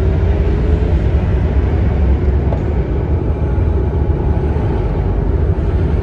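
Steady, loud low rumble of road traffic passing.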